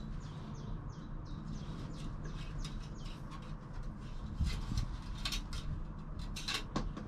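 Small birds chirping, a string of short quick calls, over a steady low hum.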